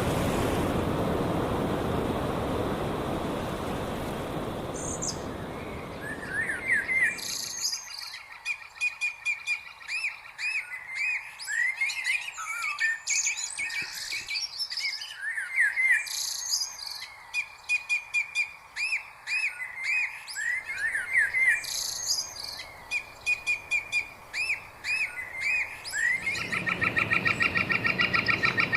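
Small birds chirping and singing, many quick up-and-down chirps and high notes. A low steady rush underneath fades away over the first several seconds. Near the end a fast, even trill starts as the rush returns.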